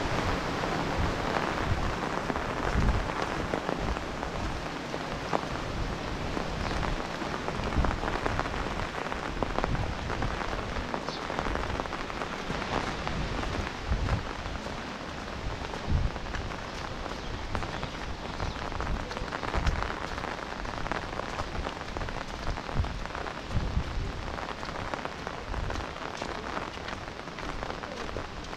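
Steady rain falling on wet ground and vegetation, an even dense hiss, with irregular short low thumps every second or two.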